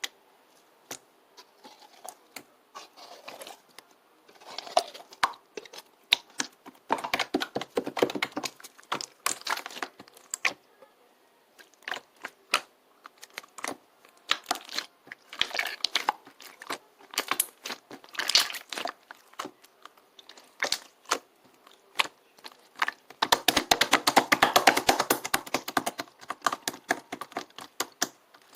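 Rapid, irregular clicking and crackling in bursts, with a long dense burst near the end.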